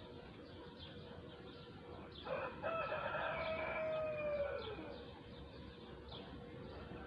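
A rooster crowing once, a call of about two and a half seconds that drops in pitch at the end, with small birds chirping in the background.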